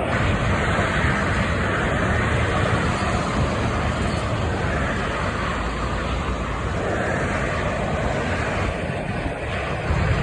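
Road traffic noise: motor vehicles running along a street, a steady rumble with a wash of tyre and engine noise.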